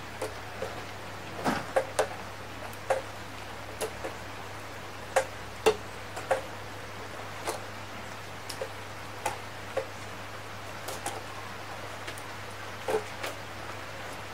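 Rain: single drops tapping irregularly on a hard surface close to the microphone, over a faint even hiss.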